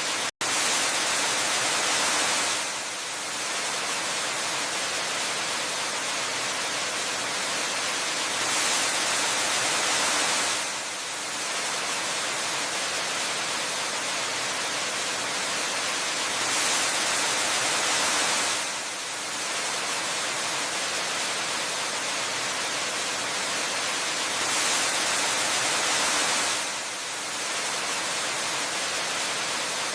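Steady rushing hiss of a waterfall, mostly high and even, swelling and dipping on a repeat about every eight seconds. It drops out for a split second just after the start.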